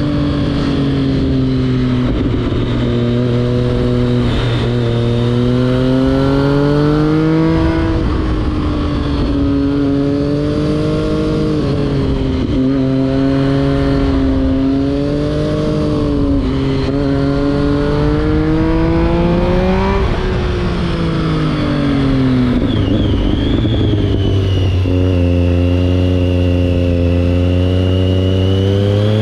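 A 2011 Triumph Street Triple 675's inline three-cylinder engine, breathing through an aftermarket SC Project exhaust, heard from on board while riding. The revs climb and drop again and again as the bike accelerates and changes speed, and fall away for a while about two-thirds of the way through. A rush of wind runs under the engine.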